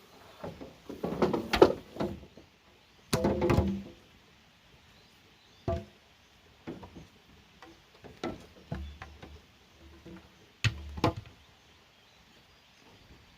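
Irregular hollow knocks and clunks of bamboo being handled and struck, some with a short ringing tone. The loudest clusters come about a second in, around three seconds in, and again near eleven seconds.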